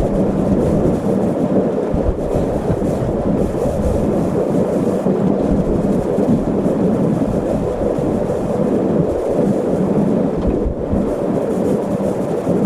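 Fan heater running: a steady, even rushing noise with a low hum underneath.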